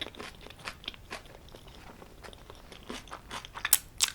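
Close-up chewing of a bite of homemade pizza: irregular wet mouth clicks and soft crunches, with two louder sharp clicks near the end.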